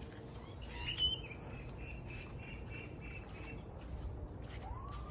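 A bird calling: a chirp, then a quick run of short, repeated high notes for about two seconds. Near the end a distant siren starts to rise.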